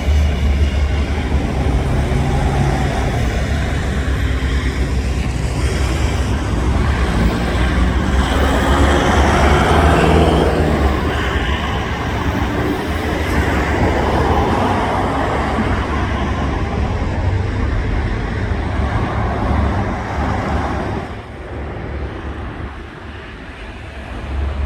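Empty cement freight train rolling past over a level crossing: a steady rumble of wheels and wagons that swells toward the middle and drops away about 21 seconds in as the train clears.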